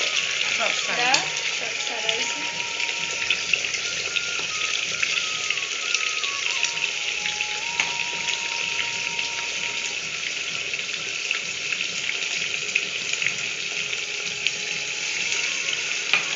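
Mutton and spice paste frying in hot oil in a pressure cooker, sizzling steadily with a fine crackle of spattering oil.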